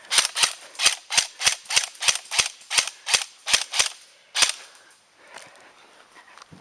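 Airsoft gun firing a quick string of about fourteen single shots, roughly three a second with sharp cracks, stopping about four and a half seconds in.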